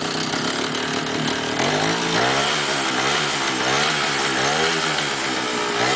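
Rokon motorcycle's small engine running, revved up and down over and over from about two seconds in, its pitch rising and falling roughly every half to three-quarters of a second.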